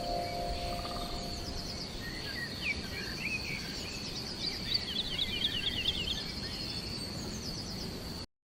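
Small birds chirping and giving quick twittering trills over a steady high-pitched buzz, busiest in the middle; the tail of a mallet-instrument music chord fades out in the first second, and the sound cuts off abruptly near the end.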